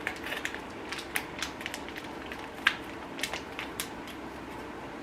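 Plastic snack packaging crinkling and crackling in irregular sharp clicks as a vacuum-sealed packet of barbecue tofu balls is opened and handled.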